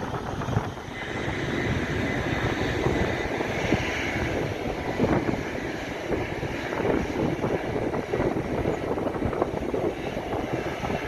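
Jet noise from a Boeing 767-300F on the ground, a steady rumble with a faint high whine in the first few seconds, with wind buffeting the microphone.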